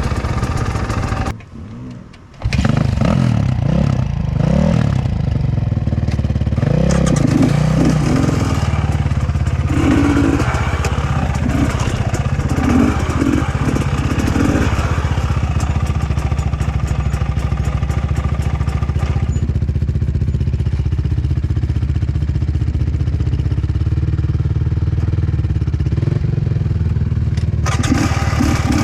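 KTM 250 XC-W two-stroke dirt bike engine running as it is ridden, the revs rising and falling. The sound drops away briefly about a second and a half in.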